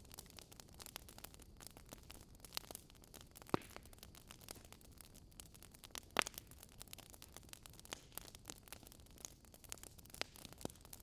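Wood fire in a fire pit crackling steadily over a low hiss, with two sharper, louder pops, one about three and a half seconds in and one about six seconds in.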